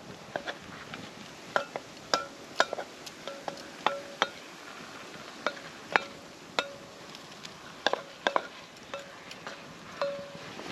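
A metal utensil knocking and scraping against a metal cooking pot while stirring, giving irregular sharp clinks, some of them ringing briefly with a short metallic tone.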